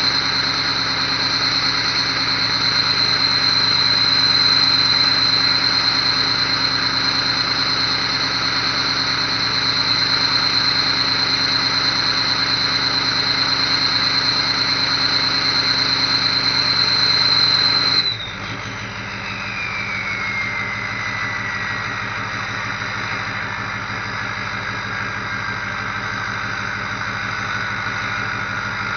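Ford 6.0L Power Stroke V8 turbodiesel running at cold high idle with a steady, high turbo whistle. About two-thirds of the way in the engine drops to a quieter idle and the turbo whistle winds down in pitch.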